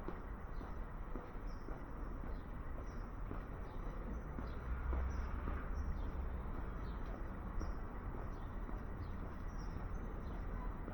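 City street ambience: a steady low rumble of traffic, with small birds chirping over it in short, high, repeated chirps about once or twice a second.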